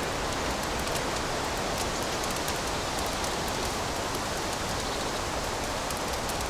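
Wood fire burning in a fireplace: a steady hiss with many small scattered crackles and pops.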